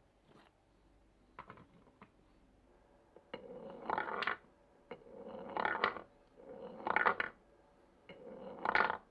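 Marbles rolling along a marble run: a few light clicks, then four separate rolls, each building for about a second and ending in sharp clacks.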